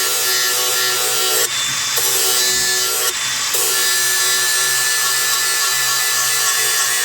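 DeWalt angle grinder with a flap disc sharpening the dull blades of a Kuhn disc mower. It gives a steady whine over a harsh, hissing grind, which breaks off briefly twice in the first few seconds.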